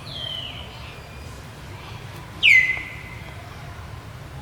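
High-pitched animal calls: a short falling call at the start, then a louder one about two and a half seconds in that drops quickly and holds one clear note for about half a second.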